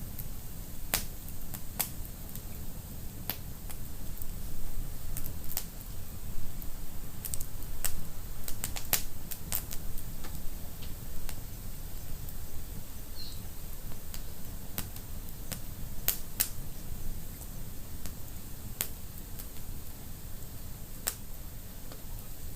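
Wood fire burning in a fireplace, crackling with irregular sharp pops that come in clusters, over a steady low rumble.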